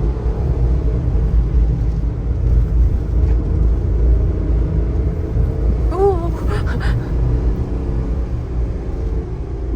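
Kei truck's small 660 cc engine running and tyres rumbling on the road, heard from inside the cab as a steady low drone. About six seconds in there is a brief pitched sound with a few short clicks.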